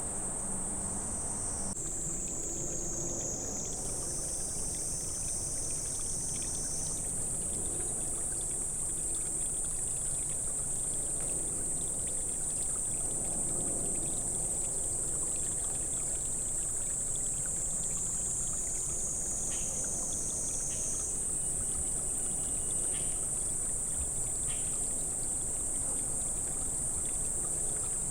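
Steady high-pitched insect chorus in a summer forest, shifting slightly in pitch a few times, over a low, even rushing noise.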